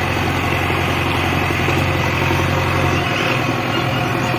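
JCB 3DX backhoe loader's diesel engine running steadily at low revs; its deep low hum thins about three seconds in.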